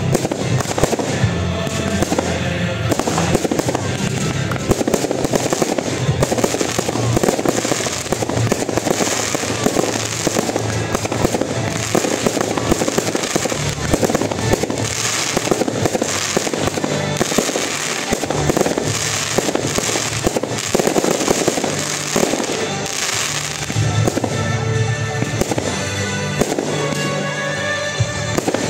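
Fireworks display: aerial shells bursting one after another in a rapid, continuous run of bangs and crackling.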